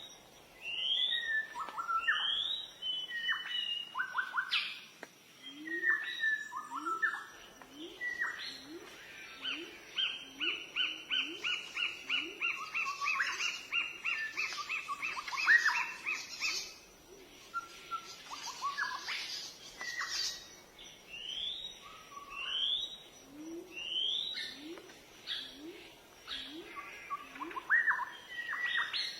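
Several songbirds singing: one repeats a short rising whistle about once a second, another gives a fast run of notes in the middle, and lower rising notes repeat through the middle stretch, over a faint steady rush of falling water.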